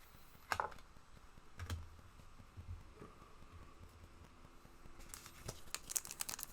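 Trading card pack wrapper being handled: a few soft clicks, then rapid crinkling and tearing from about five seconds in.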